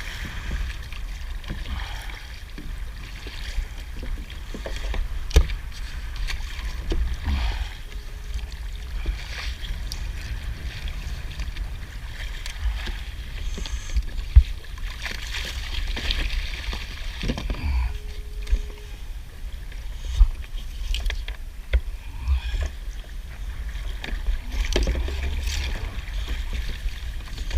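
Kayak on the water: paddle and water sounds with scattered knocks against the hull over a steady low rumble.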